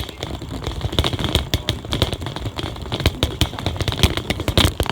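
Bicycle rattling and knocking over a rough surface: many irregular clicks and knocks a second, with a faint steady high hiss.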